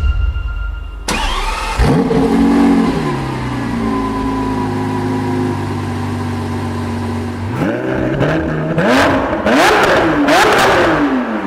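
Lamborghini Aventador SVJ's 6.5-litre V12 starting up about a second in, flaring briefly and settling into a steady idle, then revved in a few quick blips near the end.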